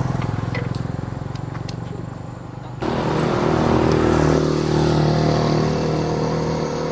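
Old tractor engine running with an even, rapid beat; about three seconds in it abruptly gets louder and fuller and keeps running at that higher level.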